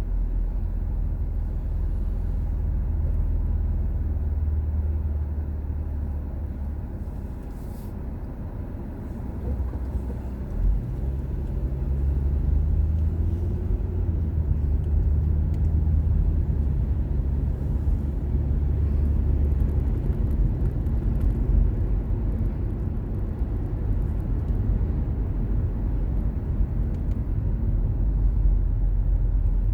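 Car on the road: steady low engine and tyre rumble. It eases off around eight seconds in, then the engine note climbs again from about eleven seconds as the car accelerates.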